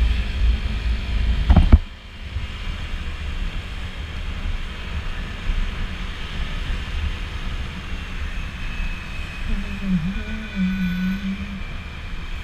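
Honda PCX scooter under way in traffic: wind buffeting the microphone and the scooter's single-cylinder engine and road noise run on steadily. A heavy gust of wind rumble builds and cuts off suddenly just under two seconds in. Near the end, a short wavering low tone comes in.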